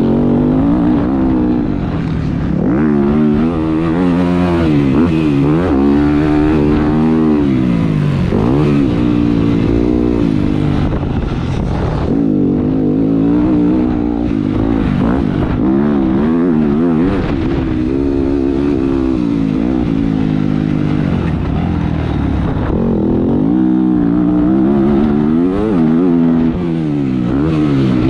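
Motocross bike engine heard from a camera mounted on the rider, revving up and dropping back over and over as it accelerates, shifts and backs off around the track.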